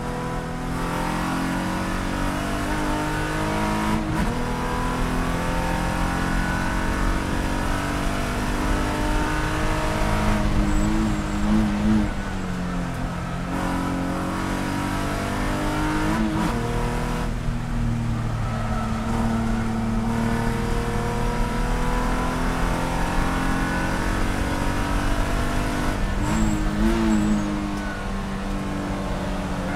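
Inside the cabin of a Spec E46 BMW race car, its 3.0-litre straight-six engine running hard on track between about 4,800 and 5,900 rpm. The engine note rises under acceleration and drops off several times for gear changes and braking into corners.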